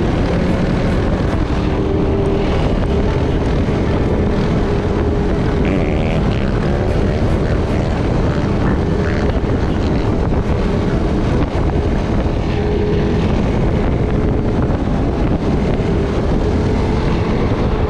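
Off-road motor vehicle engine running continuously at riding speed, its pitch wavering for a few seconds partway through as the throttle changes.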